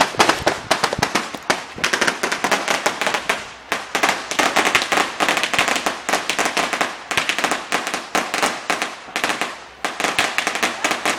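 Fireworks going off in a dense run of rapid crackling pops and bangs, many a second, easing briefly twice before picking up again.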